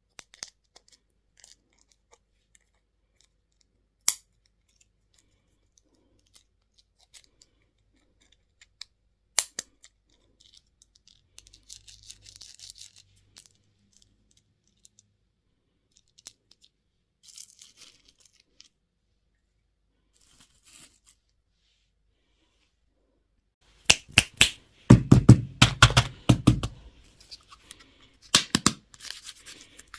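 Candy and toy packaging being handled and opened by hand: scattered light clicks and faint rustling, then a loud burst of crinkling and tearing about three quarters of the way through, and a shorter one near the end.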